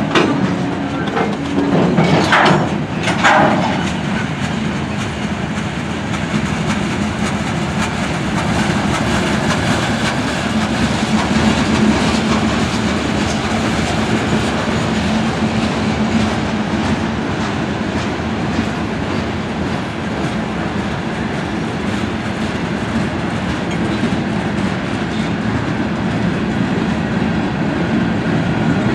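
Freight train cars rolling past: a steady rumble of steel wheels on rail with clickety-clack over the rail joints, and two short louder rasps about two and three seconds in.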